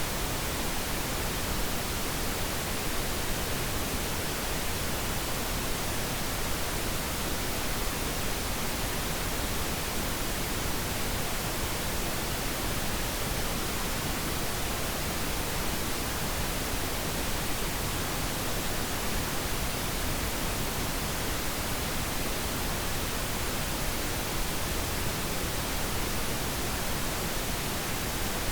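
Pink noise: a steady, even hiss that does not change, played as a sleep aid for babies.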